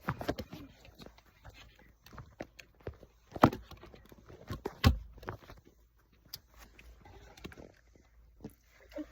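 Irregular clicks and knocks of small objects being handled and moved around in a car's centre console, with two louder knocks about three and a half and five seconds in.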